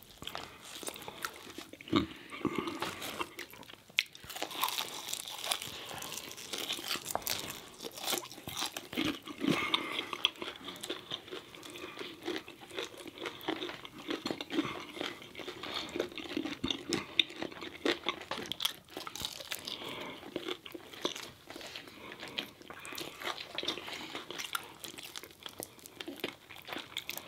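Close-miked chewing and crunching of crispy fried food, with many irregular sharp crunches as breaded pieces are bitten and chewed.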